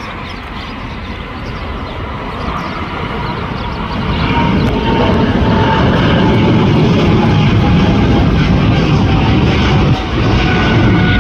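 Boeing 777-200 twinjet taking off and climbing. Its engine noise builds over the first four seconds into a loud, steady rumble, with a faint whistling tone that slowly drops in pitch as it passes.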